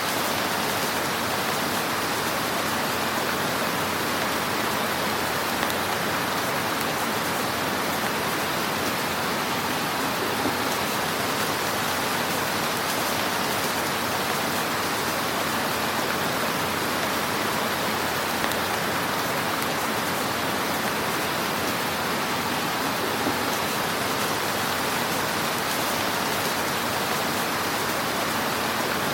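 Wood fire crackling in a fireplace: a dense, steady hiss of fine crackle with a few faint pops.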